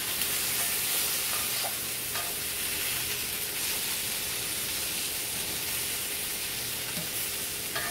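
Chicken pieces and potatoes sizzling steadily in a cast-iron skillet while a plastic spatula stirs and turns them, with a few faint knocks of the spatula against the pan.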